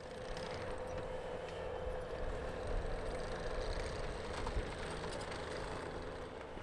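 An engine running steadily at an even speed, heard as a constant hum over a low rumble.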